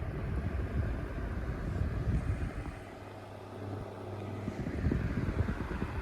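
Holmes Lil' Blizzard oscillating desk fan running on low. Its airflow buffets the microphone in rumbling gusts that fade as the head swings away, about three seconds in, and come back near the end. In the lull a steady low motor hum shows through.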